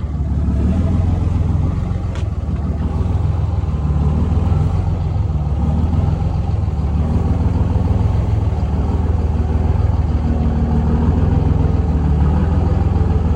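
A pickup truck's engine running steadily with a low hum. There is a single light click about two seconds in.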